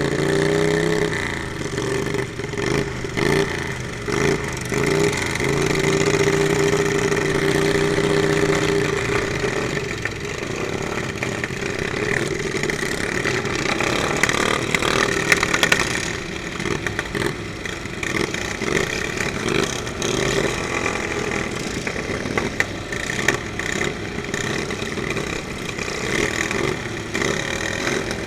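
Riding lawn mower engines running and revving. The pitch climbs at first and holds a steady note for a few seconds, then gives way to a rougher mix of engine noise with scattered knocks.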